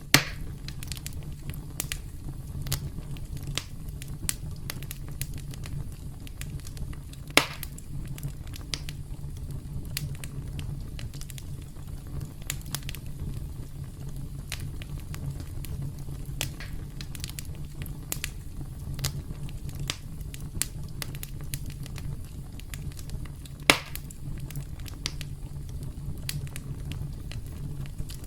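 Campfire crackling: a steady low rumble of burning wood under frequent small crackles, with three louder pops, one at the very start, one about seven seconds in and one about two-thirds of the way through.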